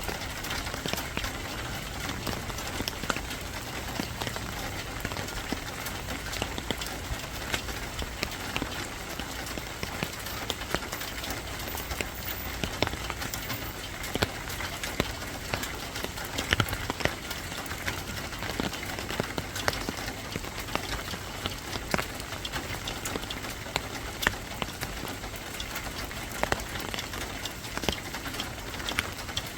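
Steady rain falling, with many sharp individual drops hitting a hard surface.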